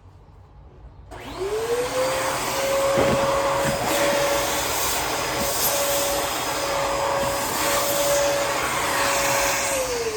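Sanitaire vacuum cleaner switched on about a second in, its motor whining up to a steady pitch and running. It is switched off near the end and the pitch falls as it winds down.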